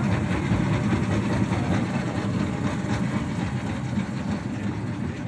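Ship's engine running with a steady low rumble and a constant hiss over it.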